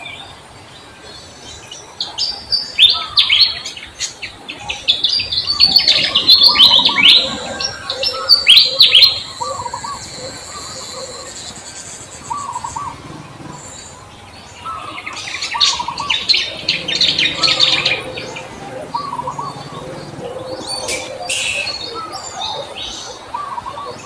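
Songbirds chirping in quick high runs, two loud bursts about two and fifteen seconds in, with softer short calls repeating between them.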